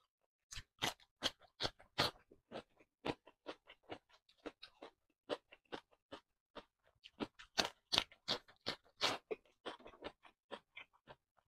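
Close-miked crunchy chewing of crisp raw cucumber, a steady run of sharp crunches about three a second with short pauses.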